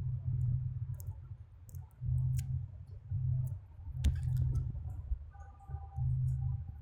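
Small clicks and ticks of hand-prying work on the RØDE Wireless GO II's small plastic casing and battery, with one sharp click about four seconds in. Under them is a low hum that swells and fades roughly once a second.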